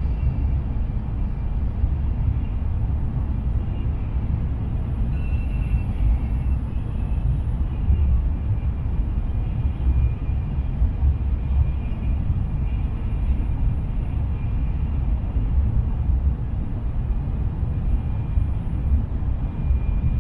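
Shinkansen bullet train running at speed, heard from inside a passenger car: a steady low rumble with a faint high whine over it.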